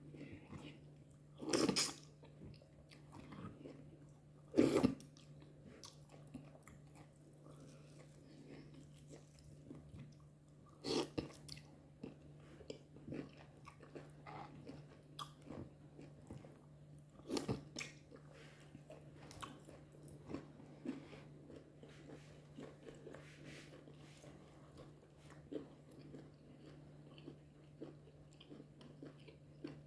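Close-up eating sounds of a person chewing fufu and goat meat, with small wet clicks and four louder sharp mouth sounds spread through. A steady low hum sits underneath.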